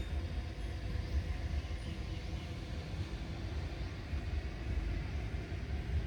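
Steady low outdoor rumble with a faint haze of noise and a few faint high chirps.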